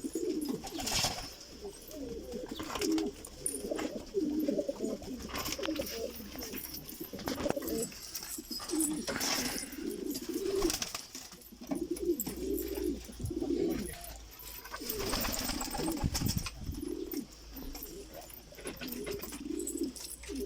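Several domestic pigeons cooing over one another in a loft, with repeated low rising-and-falling coos, and scattered sharp rustles and clicks among them.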